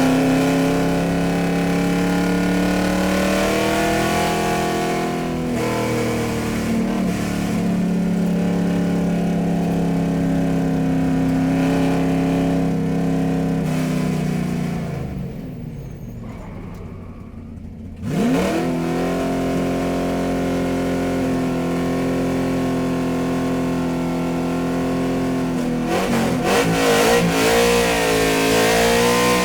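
Car engine running at steady revs. It dies away about fourteen seconds in, then picks up again suddenly with a quick rise in pitch about eighteen seconds in and holds steady. Near the end the pitch wavers up and down.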